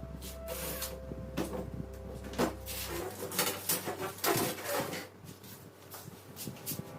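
Irregular knocks, clicks and scrapes of hands handling and working on hard materials, with a low hum that cuts off about three seconds in.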